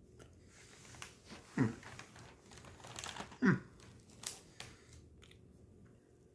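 Crinkling and clicking of a plastic cookie package and tray as a chewy fudge-filled cookie is taken out and bitten, with two short falling hums of the eater's voice.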